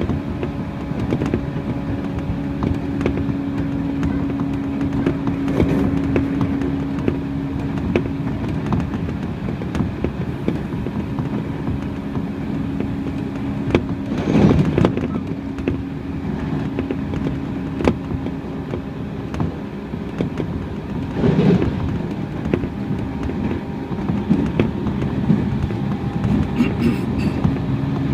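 Running noise inside a Tobu 30000 series electric commuter train at speed: a steady low hum with wheels clicking over rail joints. Two brief louder swells of noise come about halfway through and again about three quarters of the way through.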